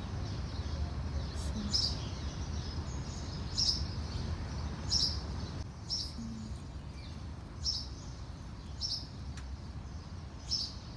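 Small bird chirping: short, high single chirps repeated every second or two, about seven in all, over a steady low background rumble.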